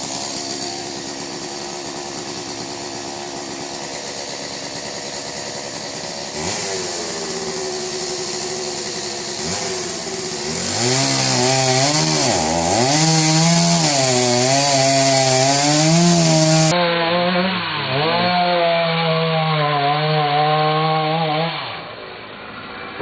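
Two-stroke chainsaw running and cutting, its engine pitch repeatedly rising and dipping as it is revved and loaded. The sound changes abruptly a couple of times, and the saw cuts off a little before the end.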